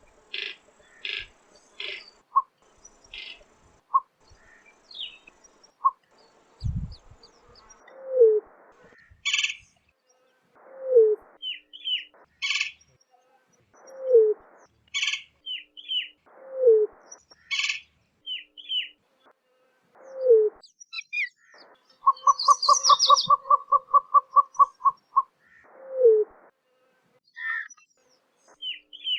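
Greater roadrunner giving low, dove-like coos that slide down in pitch, one every two to three seconds. Other birds chirp higher up throughout. About two thirds of the way in comes a quick rattle of rapid, even pulses.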